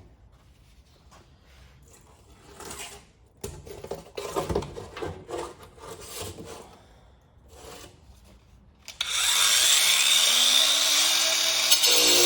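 An angle grinder starts up about nine seconds in, its whine rising as it spins up, then runs loudly with a hiss as it is set to cut fiberglass. Before that come scattered light knocks and rustles of handling.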